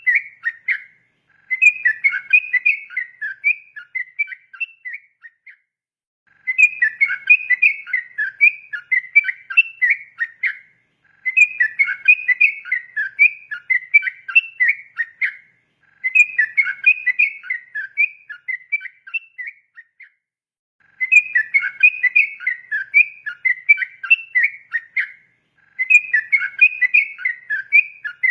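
Sooty-headed bulbul (trucukan) singing its long, rapid, chattering whistled song. The song comes in about six bouts of roughly four seconds each, separated by brief pauses.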